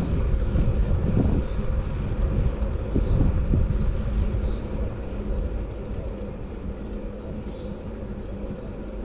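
Steady low rumble of outdoor road noise with vehicle traffic, easing off about halfway through.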